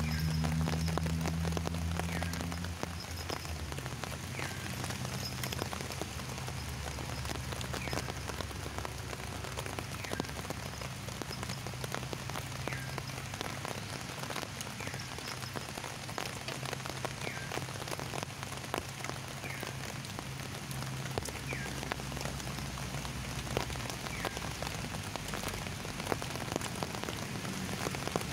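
Steady rain falling, with individual drops ticking throughout. A low hum is strong for the first three seconds and then fades, and a short chirp-like call repeats every couple of seconds.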